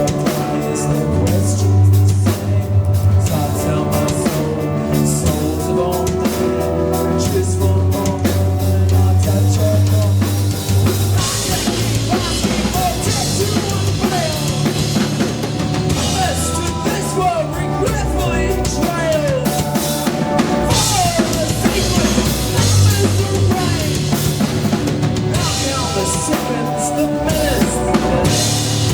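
Live rock band playing loud without vocals: a full drum kit with kick and snare driving under a heavy bass line, with sustained keyboard notes and sliding pitched lines above.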